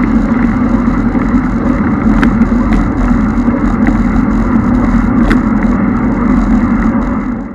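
A car driving, its engine and road noise running steadily, with a few faint ticks; the sound fades out at the very end.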